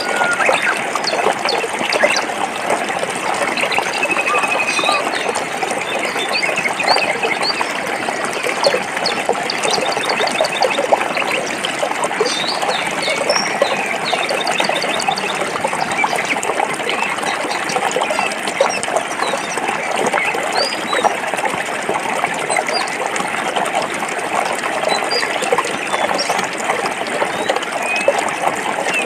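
Stream water flowing and splashing over rocks, a steady babbling rush. Small birds chirp and trill briefly now and then above it.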